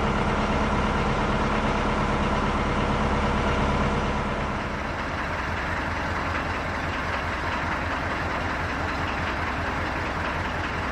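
Narrowboat's diesel engine running at low revs with a steady, rhythmic chugging.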